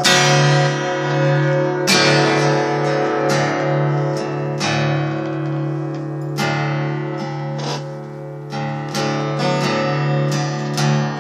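Guitar strummed in a slow, uneven rhythm, its chords left ringing between strokes, with no singing.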